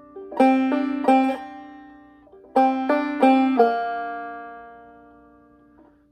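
Clawhammer banjo in G minor tuning playing two short phrases of three or four quick notes each. The second phrase is left ringing and dies away slowly.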